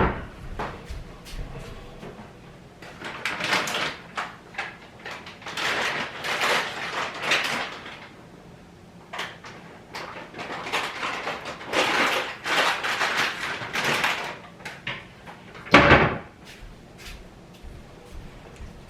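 Kitchen handling noises: spells of rustling and crinkling with small clicks and knocks, then one loud thump near the end.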